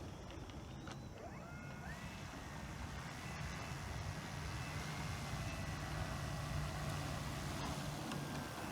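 E-flite Power 90 brushless electric motor of an RC plane whining, rising in pitch about a second in and then holding a steady high tone, over a low wind rumble.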